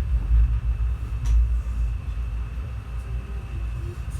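Passenger train running along the track, a steady low rumble of the wheels and coach, heard from on board. A short sharp tick sounds about a second in.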